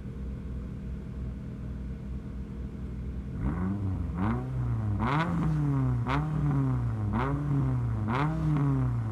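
Mini Countryman ALL4 rallycross supercar engine idling steadily, then blipped about six times, the revs rising and falling roughly once a second, with sharp cracks at several of the blips.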